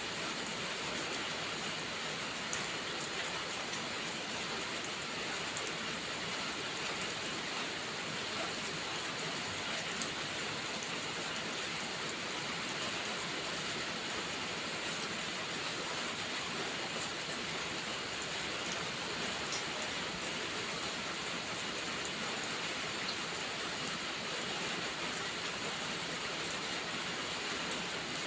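Steady rainfall, an even hiss with a few faint scattered drop ticks.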